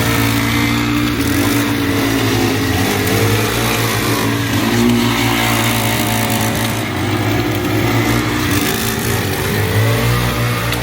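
Small 49cc petrol engine running hard, its revs rising and falling repeatedly as it is driven.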